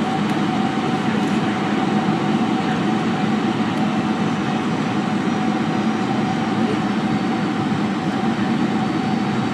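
Airliner cabin noise on final approach: the steady sound of the jet engines and rushing air, with a thin steady whine held throughout.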